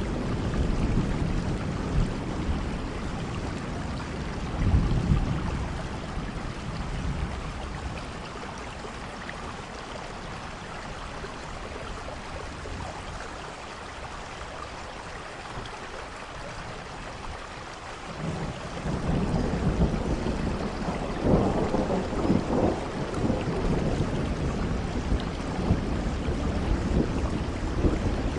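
Steady rain with rolling thunder: low rumbling in the first few seconds with a louder peak about five seconds in, a quieter stretch of rain alone, then a new roll of thunder building after about eighteen seconds and cracking loudest around twenty-one seconds.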